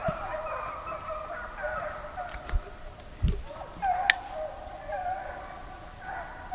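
Several deer hounds baying and howling together in drawn-out, wavering cries, with a couple of dull thumps and one sharp click partway through.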